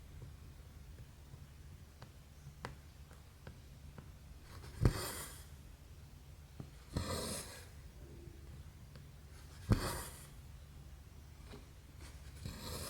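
Cross-stitch thread drawn through stamped canvas four times, each pull a short rasping hiss, with faint ticks of the needle piercing the fabric between pulls, over a low steady hum.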